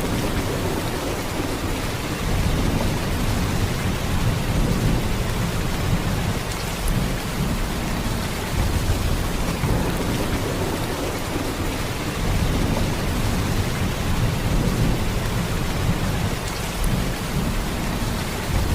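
Heavy rain in a steady downpour: a dense hiss with a deep low rumble underneath that swells and eases slightly.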